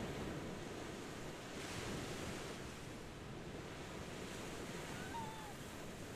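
Small waves washing onto a pebble shore: a soft, steady wash of surf that swells briefly about two seconds in.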